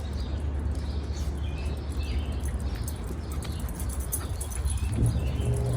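Outdoor ambience: a steady low rumble with faint bird chirps and light scattered clicks over it.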